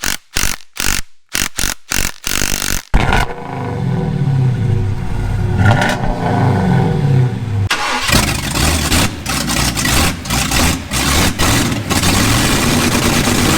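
A vehicle engine cranks in short stabs, catches about three seconds in and revs up and down; a sudden cut near eight seconds leads into a second stretch of revving that stops abruptly.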